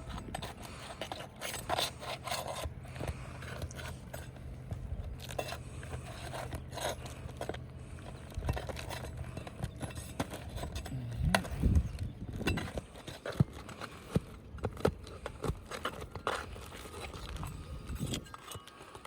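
Irregular scraping, clicks and metallic clinks of hand tools working a roof shingle and its nails loose. A steady low hum runs underneath and stops about halfway through.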